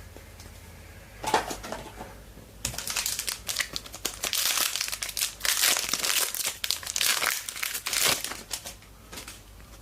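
Trading-card pack wrapper being torn open and crumpled by hand, a short crinkle about a second in, then several seconds of dense crinkling that dies away near the end.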